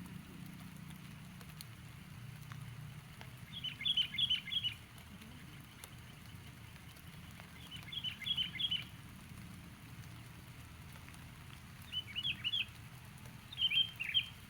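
Sooty-headed bulbul (kutilang) chattering calls, the 'cengkram' call used to lure bulbuls: four quick bursts of several sharp descending notes, each about a second long, repeated every three or four seconds over a steady low background noise.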